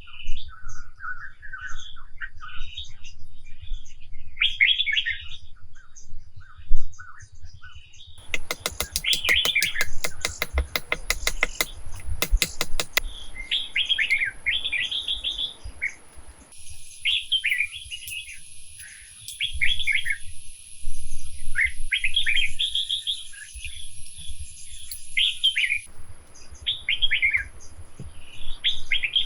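Small birds chirping and calling in short repeated phrases, with a rapid run of clicks between about 8 and 13 seconds in and a thin steady high tone through the middle. A low rumble sits underneath.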